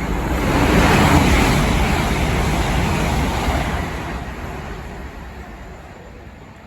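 A vehicle passing close by: a loud rush of noise that peaks about a second in, then fades away over the next few seconds.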